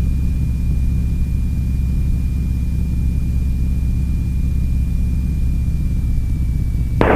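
The T-6 Texan's Pratt & Whitney R-1340 Wasp radial engine drones steadily at climb power, a constant low rumble, with a faint steady high-pitched tone over it.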